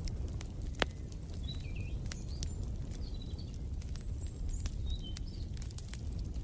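Wood fire crackling, with scattered sharp pops over a steady low rumble, and one loud pop about a second in. Small birds chirp briefly in the background a few times.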